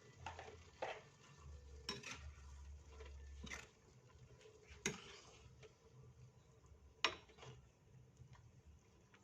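A cooking utensil stirring a stir-fry in a pan, with about eight separate clinks and scrapes against the pan, the loudest about seven seconds in.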